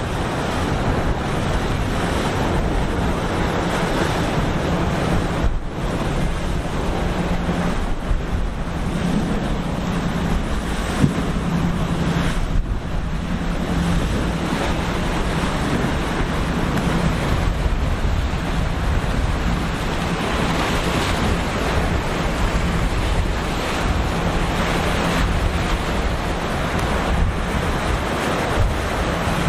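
Wind buffeting the microphone over the rush of breaking waves, with a steady low boat-engine drone underneath.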